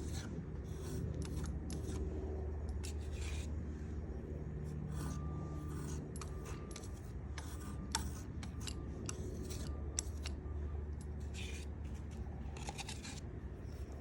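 A putty knife scraping and spreading wood putty over a wooden surface in short, irregular strokes, over a steady low hum.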